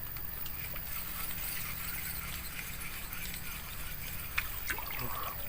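Steady riverside ambience: the swollen river's water flowing and trickling over a low steady rumble, with a few small clicks near the end.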